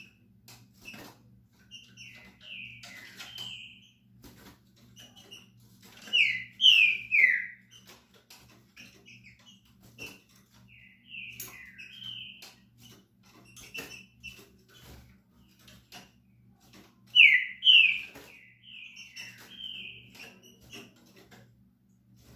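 Green-winged saltator (trinca-ferro) singing short whistled phrases of a few sliding notes, the two loudest phrases about six and seventeen seconds in, with softer phrases between. Faint clicks and taps throughout over a low steady hum.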